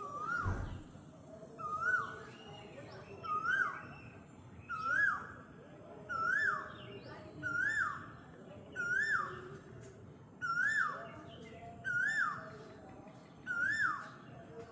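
A bird calling over and over, a short rising-then-falling note repeated about every one and a half seconds, roughly ten times. A brief low thump comes right at the start.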